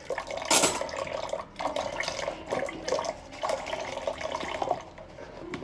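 Kitchen tap running into a sink and splashing over dishes being hand-washed, with a sharp knock about half a second in and the splashing dropping away near the end.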